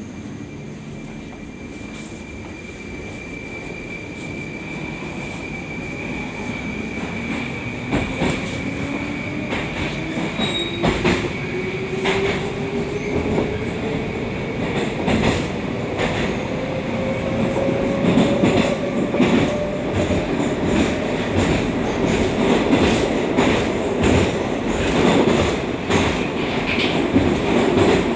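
Moscow Metro 81-760/761 'Oka' train running through a tunnel, heard from inside the carriage: a whine rising in pitch as it gathers speed, over a rumble that grows louder, with repeated knocks of the wheels over rail joints.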